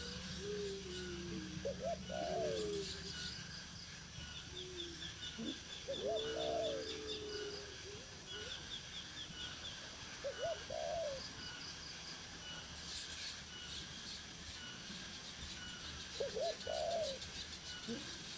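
Bird calls: a short low call repeated four times, about every four seconds, with fainter high chirping trills behind.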